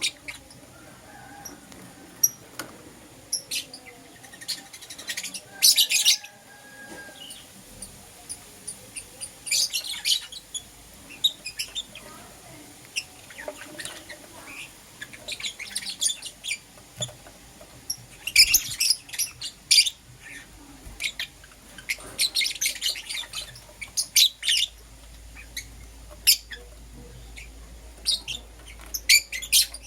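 Lovebirds chirping in quick, high-pitched bursts, bunched in irregular clusters with short pauses between.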